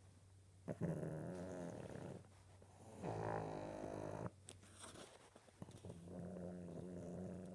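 A flat-nosed dog snoring in its sleep: three long, buzzing snores a second or so apart, the kind of snoring a flat nose brings.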